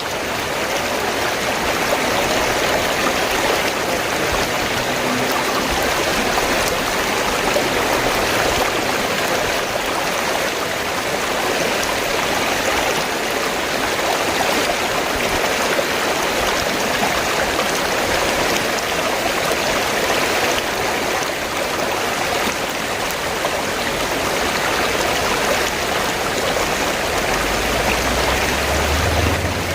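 River water flowing steadily: an even, continuous rush, with a low rumble coming in near the end.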